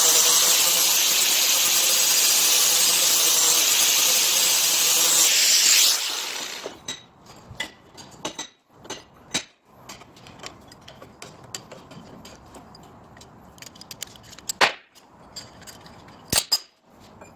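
A power tool runs steadily with a hissing, grinding noise, then shuts off about six seconds in. Light clicks and a few sharper knocks follow, as metal and tools are handled.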